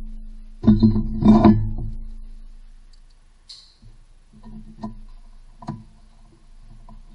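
Background acoustic guitar music: plucked notes, with a louder strummed chord about a second in that rings out and fades.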